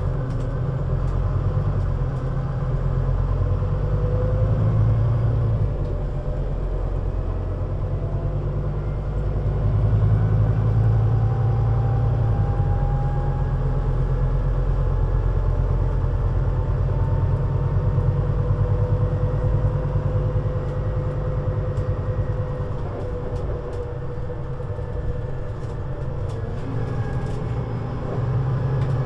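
Scania Citywide LFA articulated bus driving with its engine running: a heavy, low rumble that swells and eases every few seconds as the bus pulls away and slows, with a faint whine that slides up and down in pitch.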